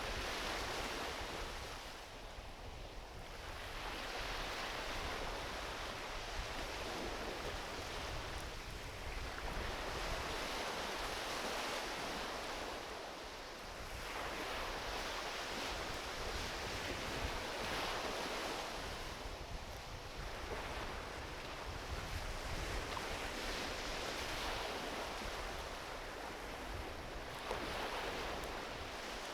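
Gentle ocean waves washing onto a beach, the surf swelling and easing every four to five seconds, with a low rumble of wind on the microphone.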